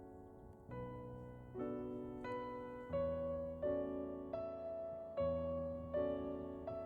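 Background piano music: slow, gentle chords, each struck and left to fade, changing about every second.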